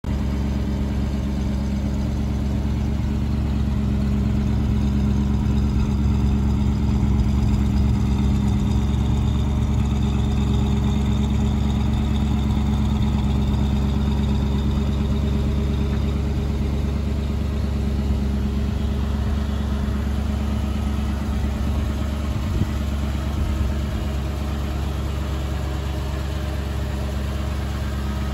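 1950 Chevrolet Suburban's engine idling steadily.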